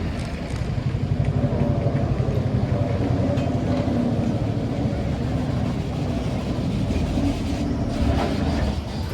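Heritage tram running along the track: a steady low rumble with faint held tones.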